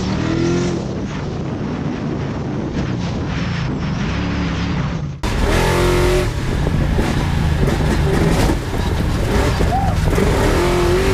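Engine of a short course off-road race truck running and revving, its pitch rising and falling; it gets louder about five seconds in.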